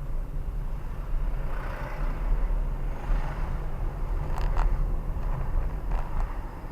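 Road vehicle engine running with a steady low rumble, and a few faint short clicks over it.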